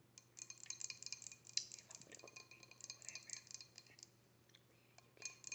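Close-miked eating of a seafood boil: a dense run of small, sharp clicks and crackles for about four seconds, a short lull, then another burst near the end.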